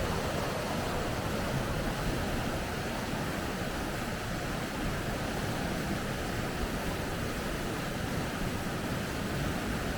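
Water rushing steadily over rapids: an even, unbroken rush.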